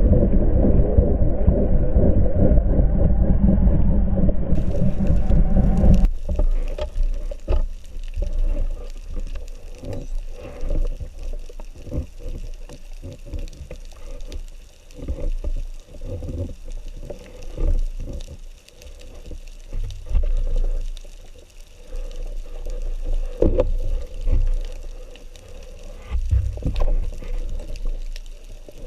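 Water noise picked up by a camera in or at the sea: a heavy low rush for the first six seconds, then it changes abruptly to lighter gurgling with many scattered clicks.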